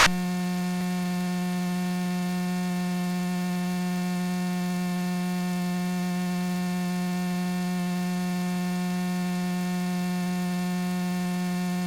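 Steady electrical hum with a buzzy row of even overtones, unchanging in pitch and level.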